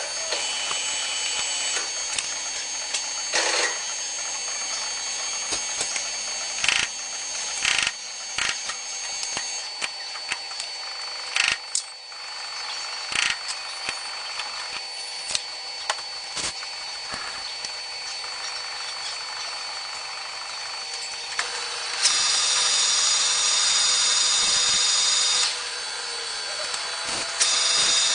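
CNC lathe machining a hydraulic rod: a steady hiss with thin high whining tones and scattered sharp clicks and knocks. About three-quarters of the way through it gets louder for a few seconds with a stronger high whine.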